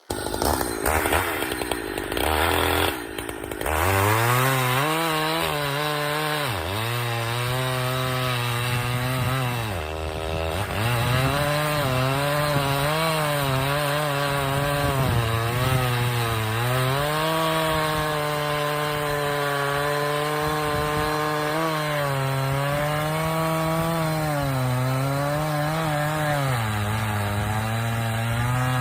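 Gas chainsaw running hard as it cuts through a maple log, its engine pitch dipping and rising again several times.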